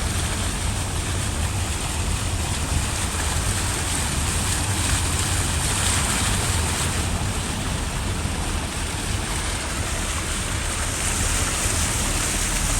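Fast-flowing floodwater rushing steadily, with a low rumble under a constant hiss and wind buffeting the microphone.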